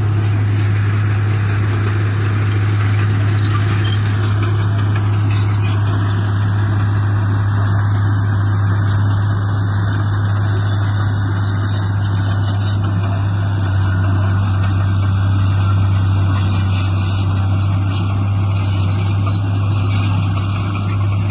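Heavy diesel engine of earthmoving equipment running at steady revs, a deep even drone that holds throughout.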